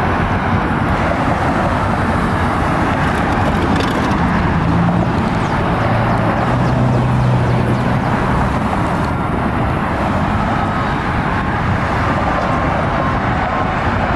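Steady, loud street traffic noise with a heavy vehicle's engine drone, which grows stronger for a few seconds near the middle.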